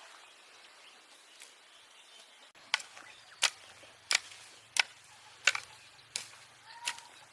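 A hand tool striking over and over in a steady rhythm, about one sharp blow every 0.7 seconds, starting a little over two seconds in.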